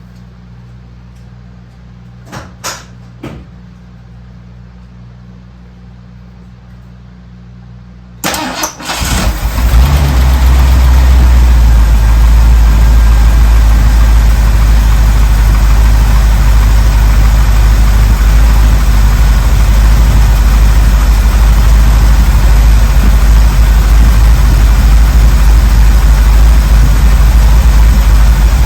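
A few clicks over a low hum, then about eight seconds in the 1979 Ford Bronco's 351M V8 engine cranks briefly, catches and runs steadily and loudly.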